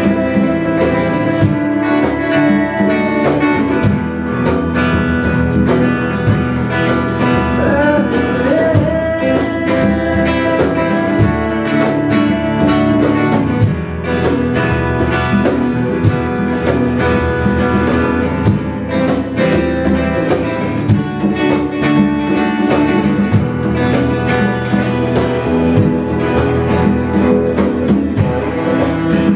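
Live band playing an instrumental passage of a song: strummed guitar over a steady percussive beat.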